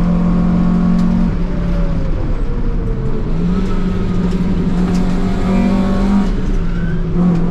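Honda Civic's D-series four-cylinder engine heard from inside the cabin as the car drives out onto the circuit. The engine note drops about a second in, climbs again around three seconds, and drops and rises once more near the end.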